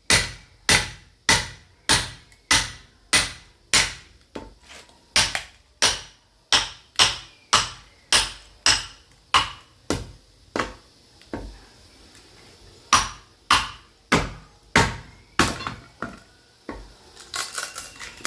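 Sledgehammer striking a steel chisel to split firewood, blow after blow at a steady pace of about one every 0.6 seconds. The blows pause and weaken about ten seconds in, resume for a short run, and end in a quick flurry of lighter knocks.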